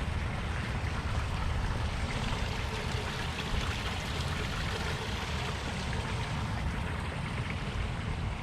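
Wind rumbling on the microphone over a steady rushing hiss, with no distinct events.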